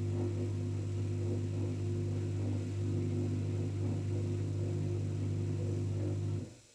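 LG 5 kg washing machine running with a steady, even hum, then shutting off suddenly about six and a half seconds in.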